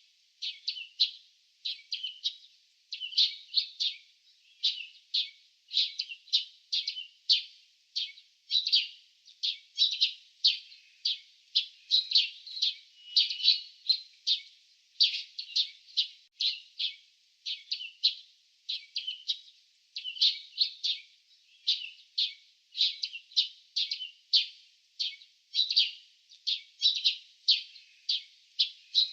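Small birds chirping: a steady run of short, high chirps, two or three a second, without a break.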